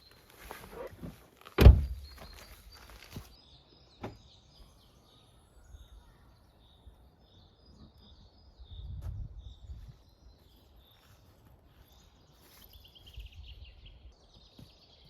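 Knocking and handling noises, with one loud thump about two seconds in, then small birds chirping and twittering through the rest, with a trill near the end.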